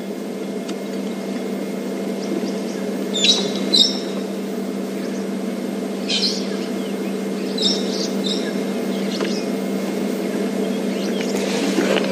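Brown-headed parrots giving short, shrill calls, singly or in quick pairs every couple of seconds, over a steady low hum.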